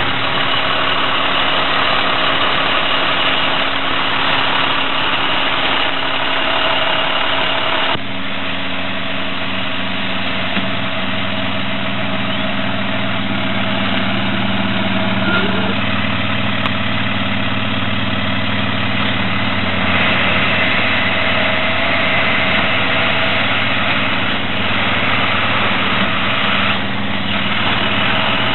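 Heavy truck diesel engine idling steadily. Its tone changes abruptly about eight seconds in.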